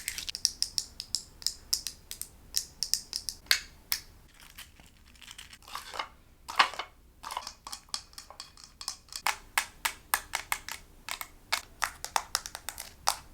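Close-miked ASMR trigger sounds: quick runs of sharp taps and clicks, several a second, with a quieter stretch about halfway through and a couple of louder hits just after it.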